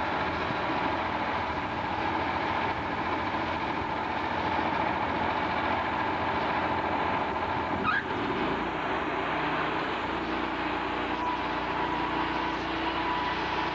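Sawmill machinery running steadily, with one short sharp sound about eight seconds in.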